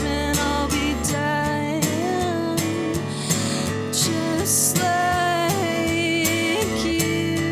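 Acoustic guitar strummed in a steady rhythm while a woman sings a held, wavering melody over it.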